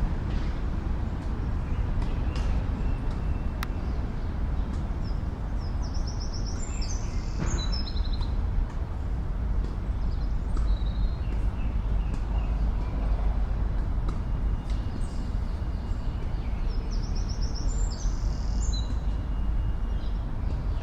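Steady low rumble of city traffic, with a songbird singing a short phrase of quick high notes twice, about six seconds in and again near the end.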